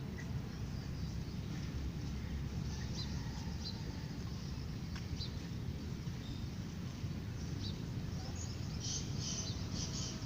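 Birds chirping in short, scattered calls, thickening into a run of chirps near the end, over a steady low background rumble.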